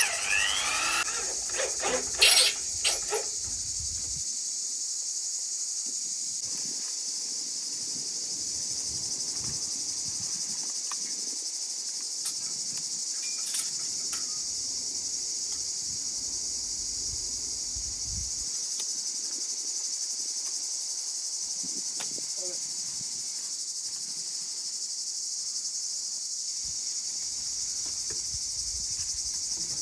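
Steady, high-pitched insect chorus. A few sharp knocks come in the first three seconds.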